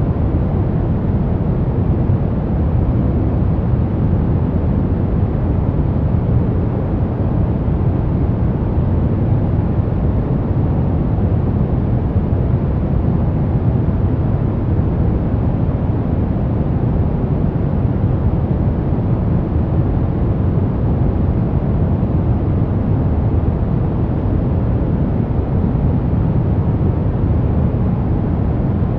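Steady, unbroken white noise for baby sleep, weighted toward the low end so that it sounds deep and rumbling rather than hissy, with no change in level or pitch.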